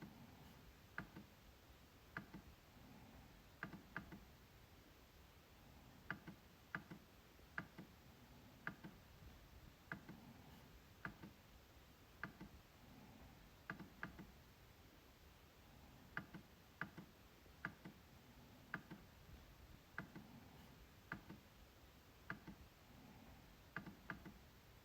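MacBook trackpad clicking: sharp single clicks and quick double clicks, irregularly spaced at about one to two a second.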